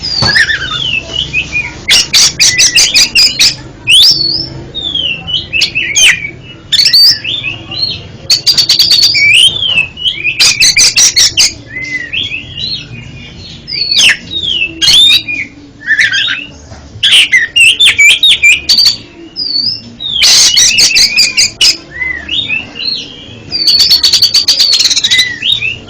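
Oriental magpie-robin (kacer) singing continuously: varied whistled notes sliding up and down, broken again and again by bursts of rapid, harsh clicking rattles.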